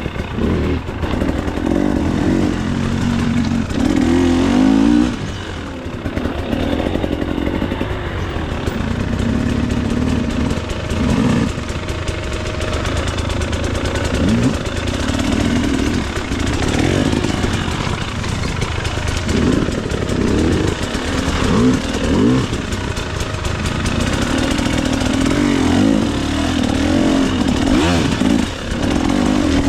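2024 KTM 300 XC-W's two-stroke single-cylinder engine being ridden, its revs rising and falling every second or two as the throttle is opened and closed.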